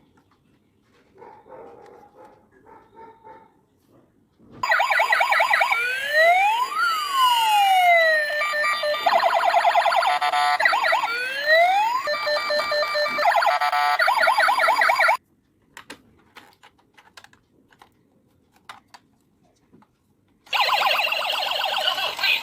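Electronic sirens of battery-operated toy police cars, several sounding at once: crossing rising and falling wails and fast warbling beeps. The sirens cut off suddenly, a few faint clicks follow, then siren sound starts again near the end.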